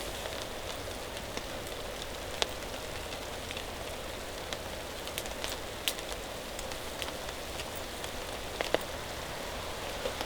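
Steady rain falling, with scattered sharp, louder drop hits every few seconds.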